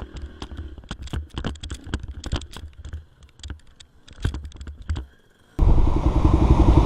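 Irregular light clicks and ticks over a faint low hum, then, about five and a half seconds in, a dirt bike engine suddenly running loud with a fast, even pulse.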